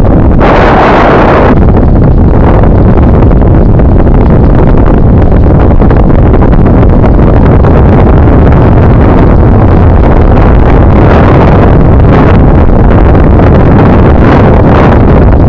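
Wind buffeting the microphone of a camera on a moving bicycle: a loud, steady rumble. About half a second in there is a brief, brighter rush of noise.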